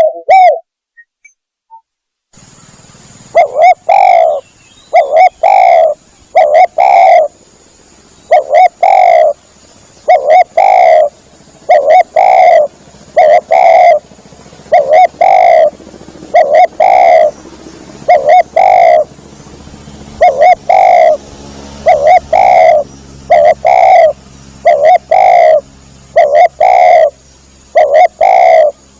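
Spotted dove (tekukur) cooing in a loud, steady series of low coo notes, often in pairs, about one every second, after a pause of about two seconds at the start: the lure call used to draw spotted doves in for hunting.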